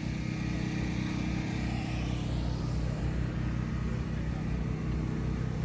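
A car engine idling steadily, a low, even hum throughout.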